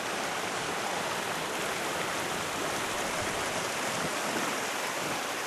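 River water rushing past in a steady hiss.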